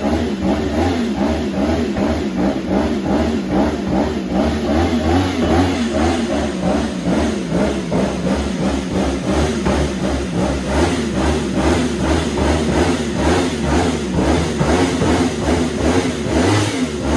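Superbike engine running loud through an Akrapovic exhaust, revved up and down over and over in quick succession.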